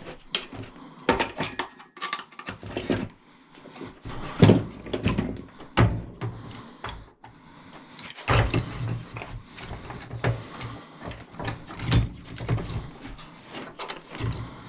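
Irregular knocks and clanks of metal tools and parts being handled on a workbench, as a power tool is picked out and readied.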